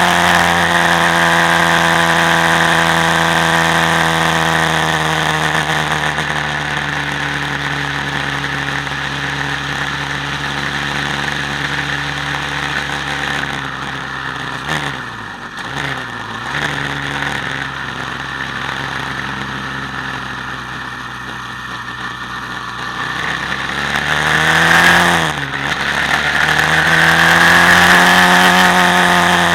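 Quad bike engine running while ridden, its pitch holding fairly steady, dipping briefly off the throttle about halfway through, then climbing again as it is revved up near the end.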